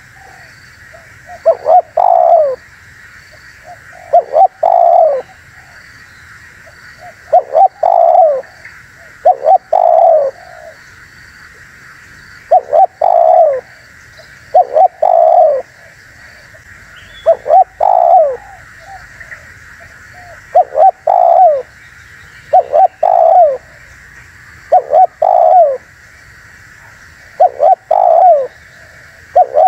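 Spotted dove cooing: about a dozen short phrases of two or three coo notes each, one every two to three seconds, over a steady high hiss.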